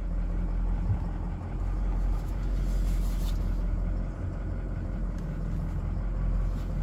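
Ford 6.7-litre Power Stroke V8 turbo-diesel idling steadily.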